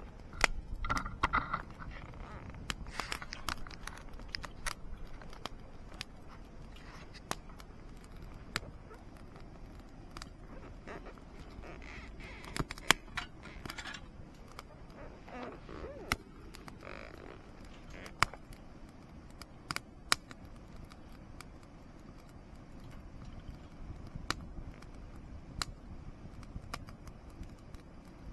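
Wood fire crackling in a fire pit: irregular sharp pops and snaps over a low background hiss.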